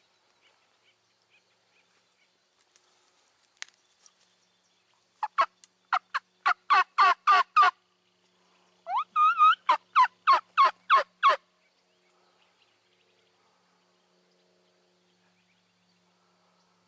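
Turkey yelping: two runs of about eight or nine quick, evenly spaced notes a little over a second apart. The second run opens with a longer rising note.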